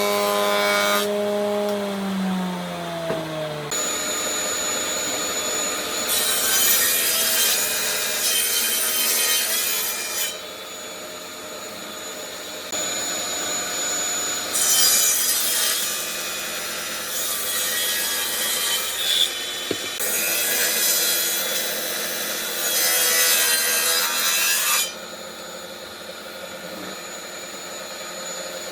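A power tool's motor winds down over the first few seconds. Then comes hand work on wood, a rough scraping and rubbing like sawing or rasping, in several stretches a few seconds long, with quieter pauses between.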